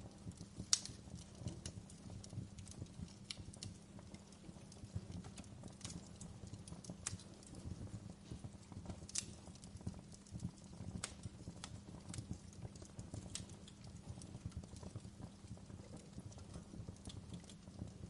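Campfire burning, with irregular sharp crackles and pops over a steady low rumble of the flames; one pop about a second in stands out as the loudest.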